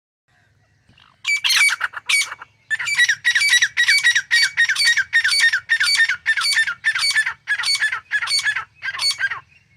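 Grey francolin calling: a quick opening run of harsh notes about a second in, then a steady string of repeated harsh, ringing phrases at about two a second.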